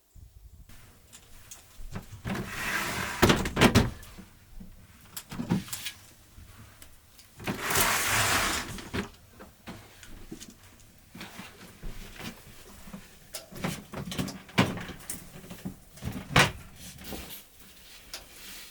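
Handling noises: scattered knocks and clicks, with two louder stretches of rustling noise about three and eight seconds in.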